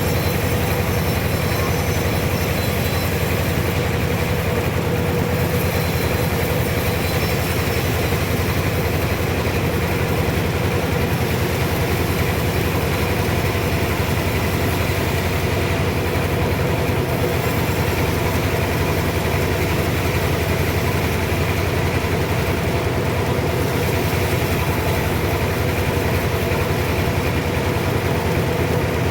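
Sawmill machinery running steadily: an engine drone with a fast, even pulse that holds level without change.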